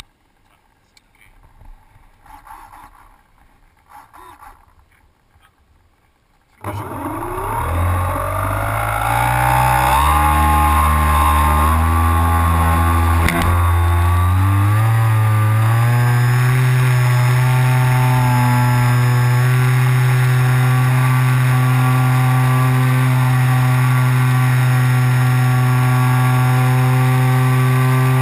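Radio-controlled glider's motor and propeller starting up suddenly about a quarter of the way in, rising quickly in pitch, then running at a steady pitch under power, heard from the onboard camera. Before that there are only faint irregular sounds, and there is a single sharp click near the middle.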